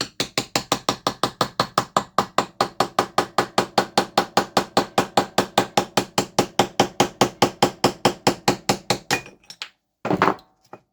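Rapid, steady hammer taps on metal, about six a second, driving a glued-in old seal out of an Eaton M62 supercharger's bearing plate. The taps stop about nine seconds in, followed by a short clatter near the end.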